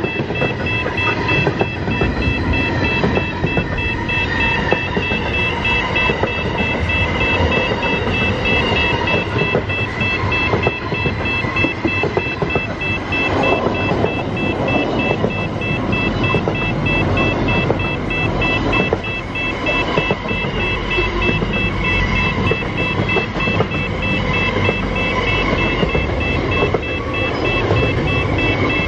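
Container freight train's wagons rolling past close by: a steady rumble and clatter of wheels on the rails. A thin, high, evenly pulsing beeping tone runs through it.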